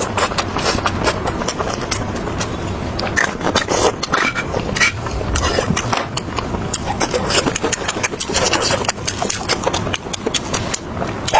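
Close-up eating sounds: loud, rapid wet chewing, lip-smacking and gnawing on meat off the bone, many small clicks and cracks in quick succession.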